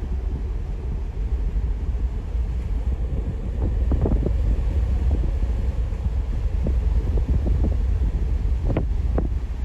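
Wind buffeting the microphone: a steady low rumble, with a few short crackles about four seconds in and twice near the end.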